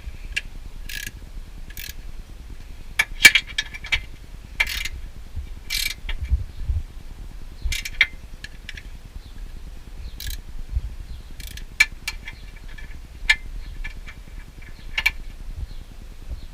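16 mm ratchet wrench clicking in short, irregular bursts while the bolts of a car's lower engine mount are worked.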